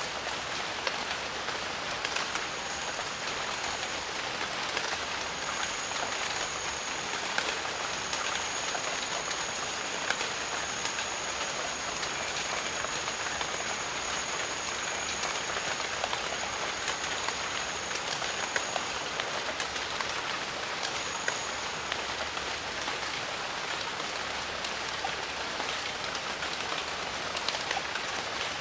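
Steady rain falling in a jungle, many separate drops striking close by over an even downpour. A thin high steady tone comes in a couple of seconds in, breaks briefly, and drops out about two-thirds of the way through.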